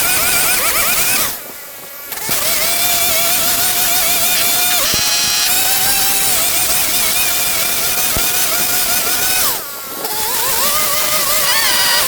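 Small petrol engine of a garden power tool running at high revs, its pitch wavering; it drops away briefly about a second in and again near the end, then picks back up.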